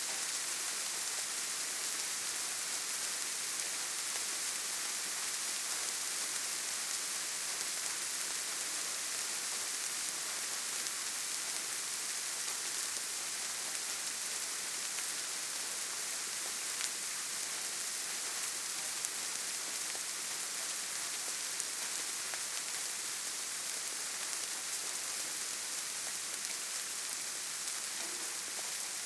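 Steady rainfall, an even hiss with a few faint single drop ticks standing out.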